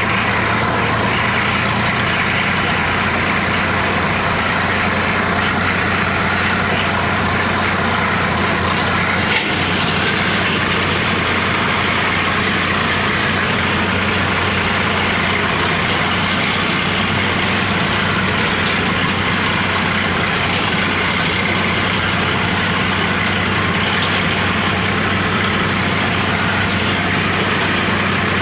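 Sonalika Sikander DI-47 RX tractor's diesel engine running steadily at an even, unchanging speed, with one brief knock about nine seconds in.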